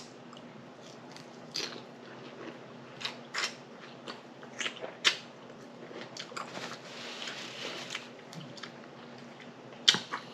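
Close-miked chewing of salad, with irregular wet crunches and mouth smacks. A faint steady hum sits underneath.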